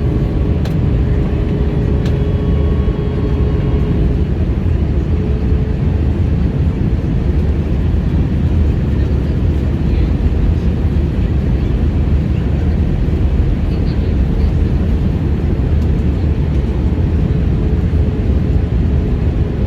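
Steady, loud roar of an airliner cabin in flight, the engine and airflow noise heard from a passenger seat, with a faint steady tone running through it.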